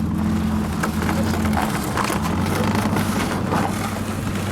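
A car engine running steadily, with a low hum that weakens about a second and a half in.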